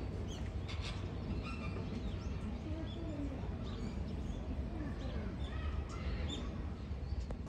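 Birds chirping in short, scattered calls over faint voices and a steady low rumble.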